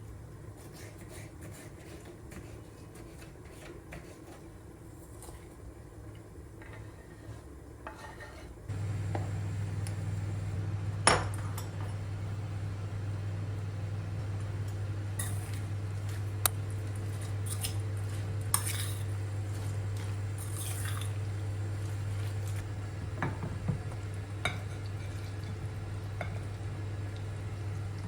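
Dishes and cutlery clinking and knocking now and then in a kitchen. About nine seconds in, a steady low hum starts and keeps going under them.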